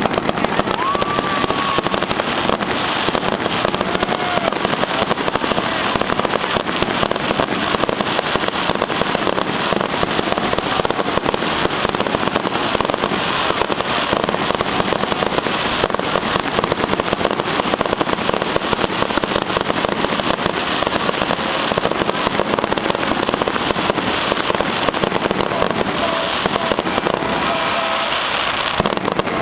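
Aerial fireworks display: a dense, unbroken barrage of shell bursts and crackling, with bangs following one another closely and no pause.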